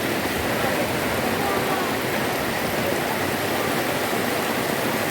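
Heavy rain falling and pattering on surfaces, a steady hiss that doesn't let up.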